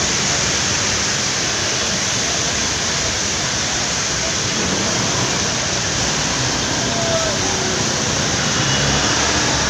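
Steady, dense roar of city road traffic circling a busy roundabout, an even wash of engine and tyre noise with no clear breaks.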